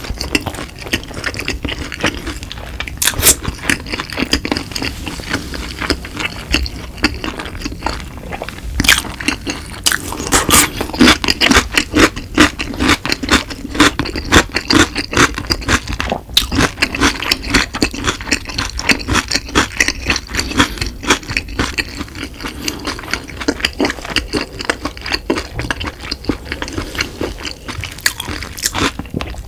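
Close-miked chewing of crispy fried food: dense wet crunches and mouth clicks, busiest around the middle.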